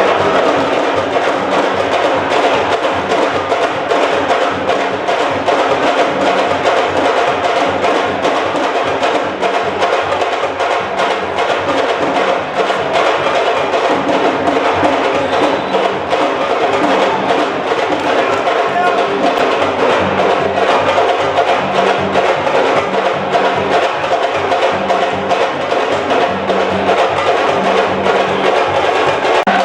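Continuous percussion music: fast, dense drumming with sharp wood-block-like strokes, running steadily without a break.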